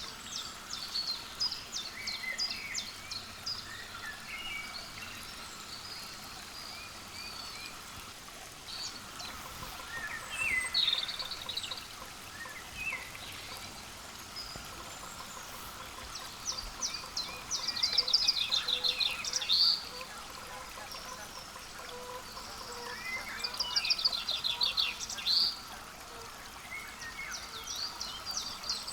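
Small songbirds calling: scattered short notes and three bouts of quick chattering runs, over a steady outdoor hiss.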